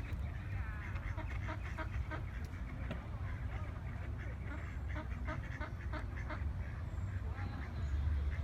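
Waterfowl calling: many short calls from a flock, over a steady low rumble.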